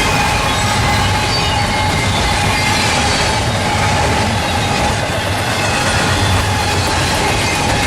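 Norfolk Southern freight train rolling past, a steady rumble of cars on the rails with thin whining tones from the wheels above it.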